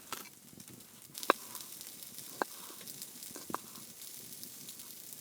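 Sausages and vegetables frying in a pan: a steady sizzle with a few sharp pops about a second apart.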